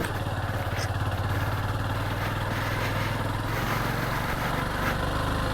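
Motorcycle engine running at a steady, low speed with an even pulsing note, picking up slightly near the end.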